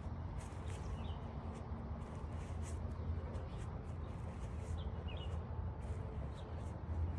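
Steady low rumble of background noise with a few faint, short high chirps, about a second in and again around five seconds in.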